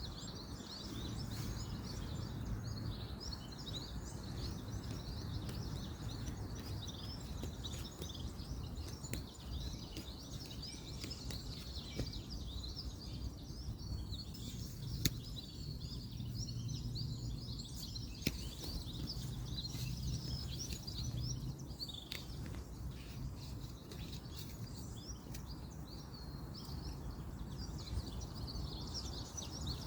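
Many birds chirping continuously over a low, steady rumble of distant road traffic, with a few sharp clicks standing out, the loudest about halfway through.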